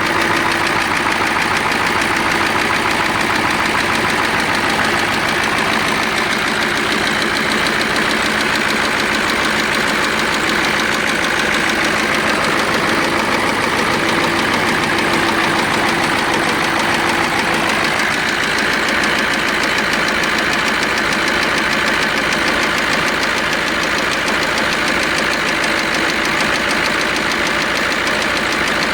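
KAMAZ 7403 V8 turbo-diesel idling with a steady, fast knock and clatter. The owners cannot yet place the knock: they suspect the air compressor, the fuel pump or a stuck injector, or a cylinder liner or head, since exhaust gases are getting into the coolant and making it bubble.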